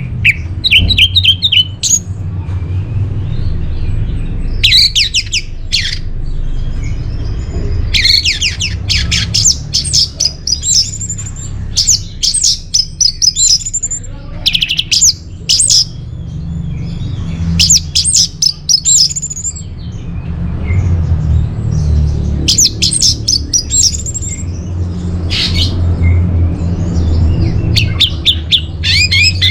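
Orange-headed thrush singing: phrase after phrase of rapid, varied high notes, each lasting a second or two, separated by short pauses, over a steady low hum.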